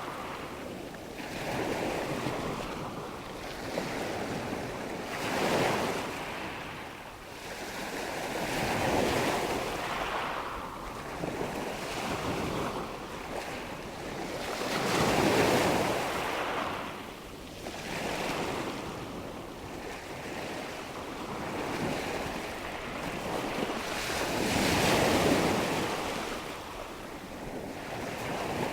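Recorded nature ambience of rushing water and wind: a steady hiss that swells and ebbs every few seconds, like surf washing in.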